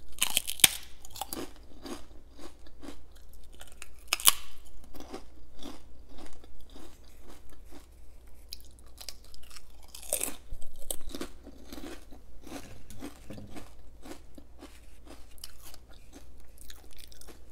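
A person chewing crisp homemade prawn crackers with steady crunching, about two chews a second. Sharper, louder crunches come near the start, about four seconds in and about ten seconds in.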